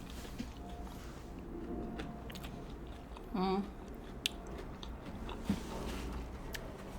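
A person chewing a mouthful of sushi close to the microphone, with soft wet mouth sounds and a few sharp clicks. A brief hum comes about halfway through.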